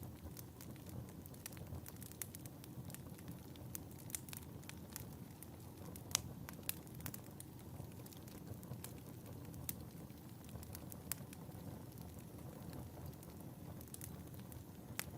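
Wood fire burning in a fireplace: a low steady rumble with frequent scattered sharp crackles and pops, one pop about six seconds in louder than the rest.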